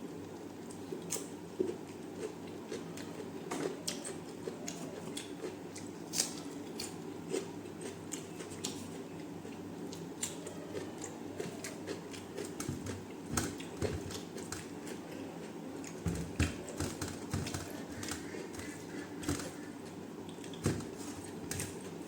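A person chewing and biting food close to the microphone, with irregular mouth clicks and occasional crunches.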